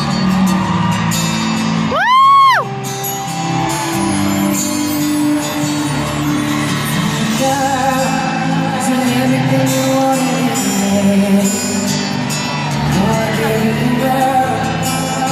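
Live pop concert music with singing, heard in a large arena through a crowd recording. About two seconds in, a loud, high whoop close to the microphone rises and falls once.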